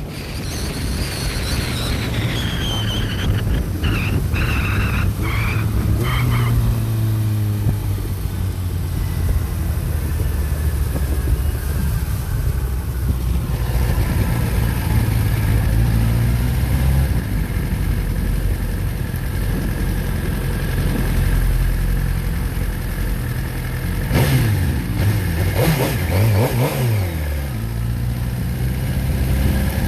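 Motorcycle engine running under way at road speed. Its pitch falls in the first few seconds, and about three-quarters of the way through it rises and falls several times as the throttle is worked.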